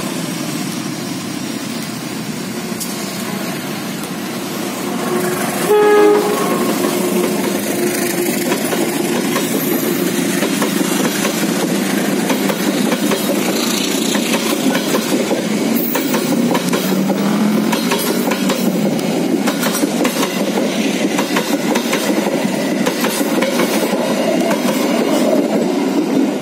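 Passenger train hauled by a CC201 diesel-electric locomotive approaching, its engine rumbling, with one short horn blast about six seconds in. The coaches then pass close by with a rapid clickety-clack of wheels over rail joints that goes on as the last coach goes by.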